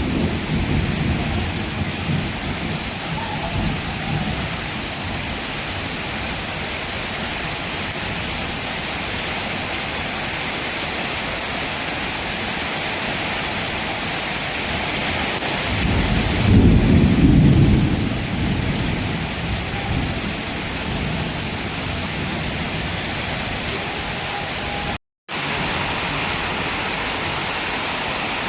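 Heavy monsoon rain falling steadily, with a low rumble of thunder a little past the middle. The sound cuts out for a moment near the end.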